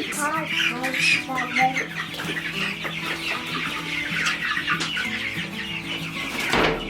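A brooder full of three-week-old meat chickens peeping and cheeping together, loud, with background music coming in under them.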